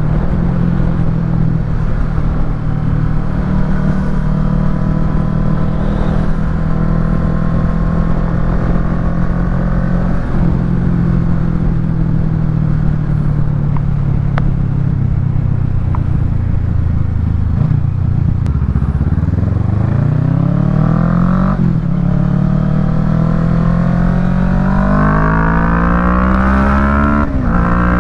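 Kawasaki Ninja 650 parallel-twin engine through a Yoshimura Alpha full exhaust, heard from the rider's seat. It runs steadily at first and slowly drops in revs. Then it accelerates with rising revs, with an upshift about three-quarters of the way through and another just before the end.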